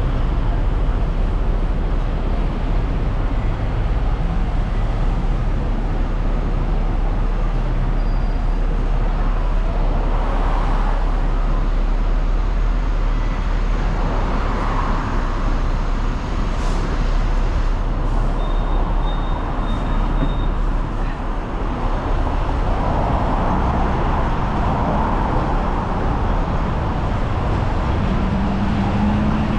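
Hong Kong double-decker tram running: a steady low rumble and hum of the tram in motion, with road traffic around it. A brief high thin squeal comes about two-thirds of the way through.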